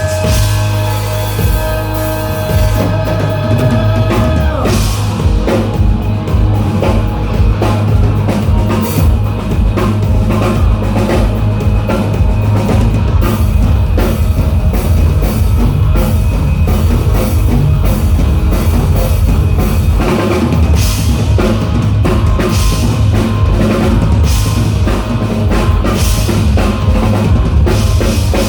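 Live rock band playing loudly: a held chord for the first few seconds, then the full drum kit and bass come in about four seconds in and drive on steadily.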